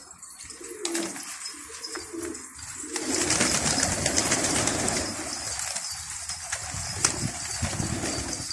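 Domestic pigeons cooing, low and wavering; about three seconds in, a loud, steady rush of noise covers them.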